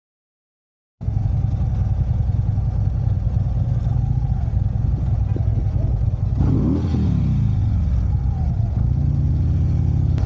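Silence for about a second, then a motorcycle engine running steadily while riding on the road. About six seconds in, a falling pitch sweeps down over a couple of seconds.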